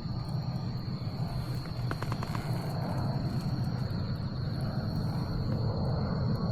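Wood bonfire crackling, with a small run of quick pops about two seconds in, over a steady low rumble and a thin, steady high-pitched tone.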